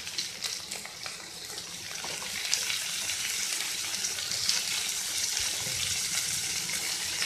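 Onion, garlic, ginger, chopped tomato and green chillies sizzling in hot oil in a kadhai as they are stirred with a spatula. The sizzle is a steady hiss that grows a little louder after about two seconds, with a few light clicks from the spatula.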